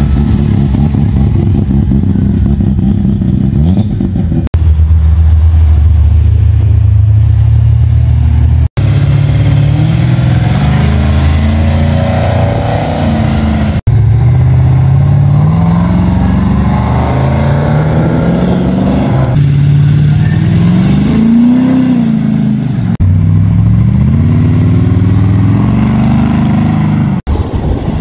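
Car engines running, heard in several short segments that break off suddenly. They idle steadily at first, then are revved in the second half, the pitch rising and falling with each rev.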